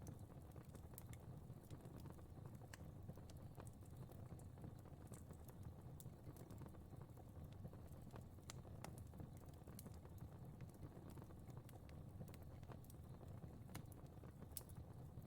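Fire crackling softly: scattered sharp crackles and pops over a low, steady rumble.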